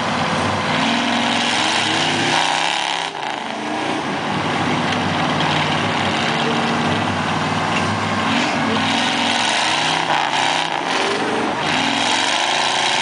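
A truck's engine revving hard over and over, its pitch climbing and falling every second or two, over a constant wash of noise.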